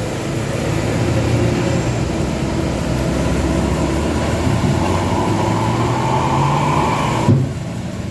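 Heavy diesel engine running steadily, its pitch rising slightly through the middle as it works harder. A brief knock comes about seven seconds in, after which the sound turns duller.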